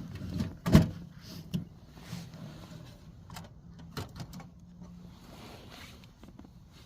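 A sharp knock about a second in, followed by scattered light clicks and taps, as of gear being handled.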